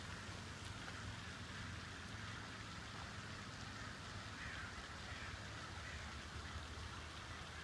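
A flock of birds calling faintly and continuously as a dense chatter, over a steady low hum.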